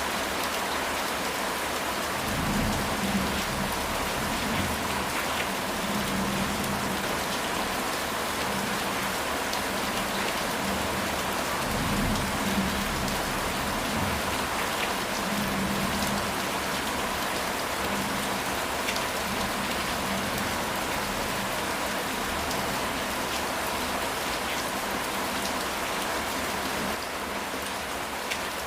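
Steady rain falling on a house roof, with low rumbles of thunder a few seconds in and again around the middle.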